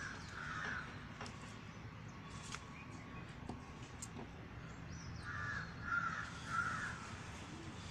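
A bird giving short, rough calls, twice at the start and three times in quick succession near the end, over a faint steady low hum.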